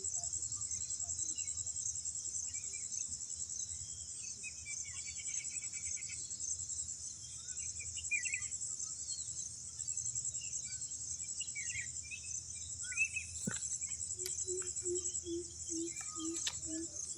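Steady high-pitched insect chorus with scattered short bird chirps. In the last few seconds a low call repeats as a run of evenly spaced notes, about three a second.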